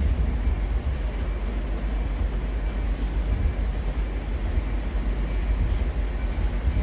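A Northern Class 195 diesel multiple unit running slowly into the platform to terminate, a steady low rumble.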